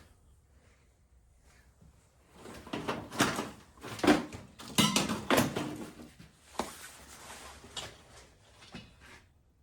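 Someone rummaging for tools: a run of clattering knocks and clicks, thickest from about two seconds in to six seconds, then a few scattered ones.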